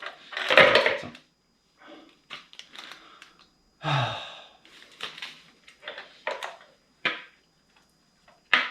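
Workshop handling noises: a plastic bag rustling, then a run of short irregular clicks and knocks as the BSA's oily primary drive chain is handled and packed into a bag.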